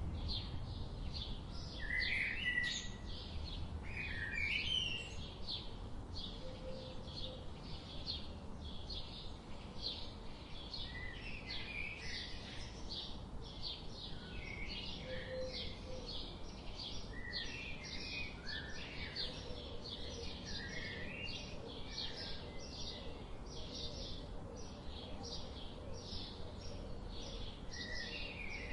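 Birds chirping and calling in a forest: a steady, even series of short high chirps, about two or three a second, with other birds' shorter chirps and rising notes scattered among them over a soft background hiss.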